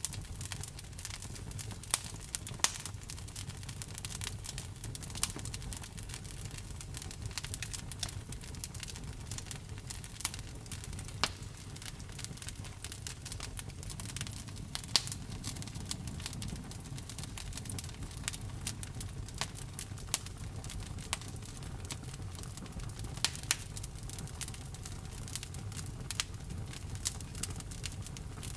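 Wood fire burning, crackling with many irregular sharp pops over a low steady rumble, a few pops louder than the rest.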